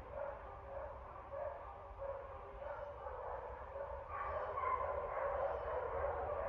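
Dogs barking again and again, the barks getting louder and more frequent about four seconds in, over a steady low rumble.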